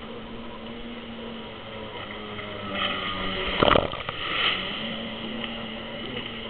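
Jet ski engine running with a steady hum, swelling louder from about three seconds in, with a short loud rush of noise near the middle.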